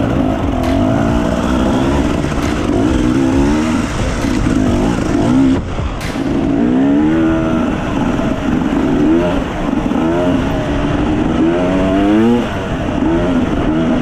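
Dirt bike engine revving up and down again and again on an off-road trail, its pitch climbing and dropping every second or so.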